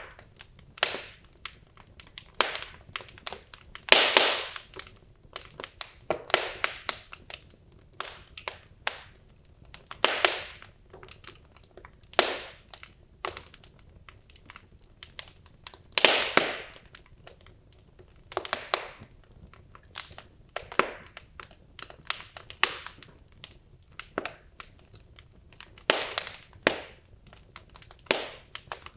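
Wood logs burning in a fireplace, crackling and popping irregularly, with a few louder pops standing out over a faint steady hiss.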